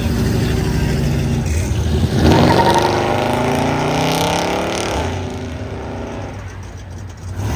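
A car accelerating hard, its engine note climbing in pitch for a few seconds and then fading as it pulls away, over the low rumble of another engine idling.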